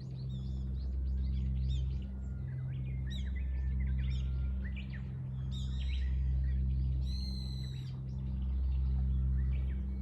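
Several wild birds chirping and calling over one another in quick, overlapping phrases, with one buzzy, ringing call a little after seven seconds in. A steady low hum runs underneath, swelling and fading every couple of seconds.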